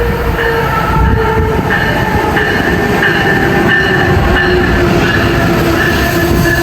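Amtrak Northeast Regional passenger train slowing into a station stop: a steady rumble of cars and wheels under a squeal of brakes and wheels whose pitch slowly falls as it slows.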